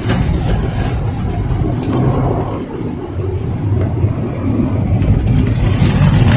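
Automatic tunnel car wash heard from inside a car: a steady, loud low rumble with the hiss of wash equipment working on the car body, and a few brief clicks.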